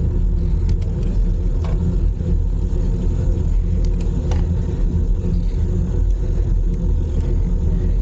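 Steady low rumble of wind buffeting the microphone of a camera riding on a moving bicycle, with a few faint clicks.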